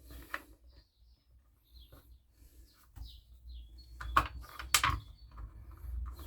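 Sharp clicks and knocks of parts being handled and fitted on a petrol strimmer, coming in a run in the second half, with faint bird chirps in the first half.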